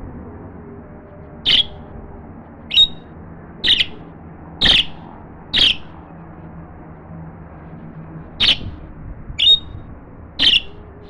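African grey parrot giving eight short, sharp calls, about one a second, with a pause of nearly three seconds after the fifth.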